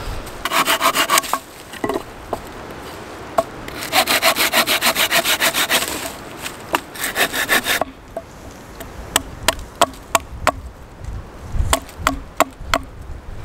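Wood being sawn by hand in two runs of quick, even rasping strokes, about five a second, followed by a string of scattered sharp knocks and clicks.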